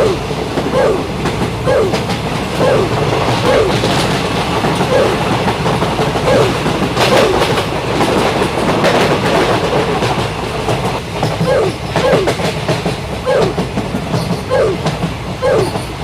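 Train running with a steady clatter and a short note repeating roughly once a second.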